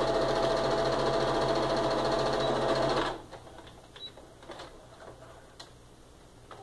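Sewing machine stitching a seam at a steady speed, then stopping abruptly about three seconds in. A few small clicks follow.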